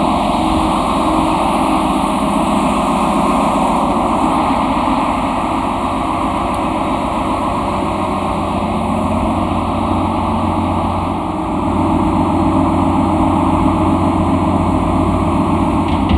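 Ship's engine-room machinery running with a steady, loud drone.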